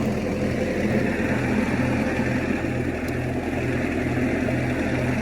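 1956 Massey Ferguson F40 tractor's engine running steadily at low speed, with an even pulse a little over twice a second.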